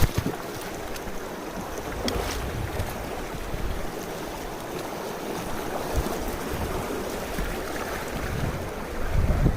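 Mountain stream rushing steadily, with low gusts of wind buffeting the microphone and a few soft knocks.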